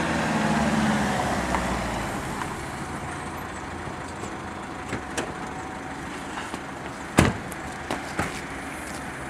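A car engine running and fading away over the first two or three seconds, then steady street background with a few light knocks and one sharp click about seven seconds in.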